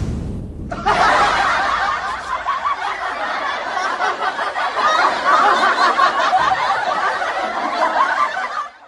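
Laughter sound effect: many overlapping voices laughing together, starting about a second in after a low rumble fades and cutting off abruptly near the end.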